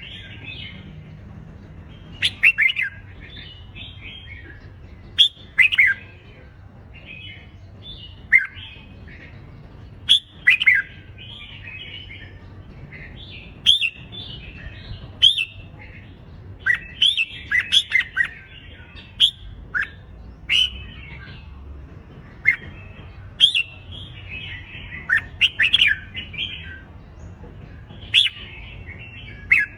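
Red-whiskered bulbuls singing competitive fighting song: short, loud whistled phrases that follow one another irregularly, several in quick succession in places, over a faint low hum.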